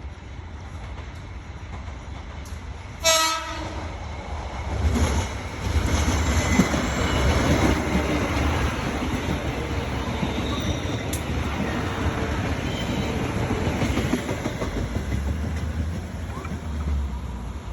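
A train horn sounds one short blast about three seconds in. Then a train passes close by, its rumble and wheels on the rails loud and steady.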